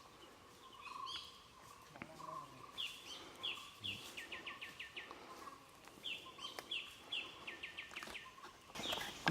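A songbird singing the same phrase three times, about every three and a half seconds: a few clear high notes followed by a quick run of falling notes.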